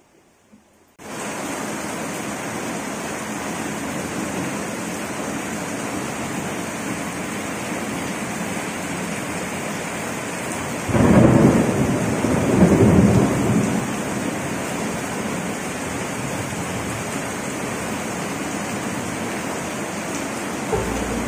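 Heavy rain pelting down on paving, a steady dense hiss that starts suddenly about a second in. About eleven seconds in, a rumble of thunder swells twice over some three seconds, louder than the rain.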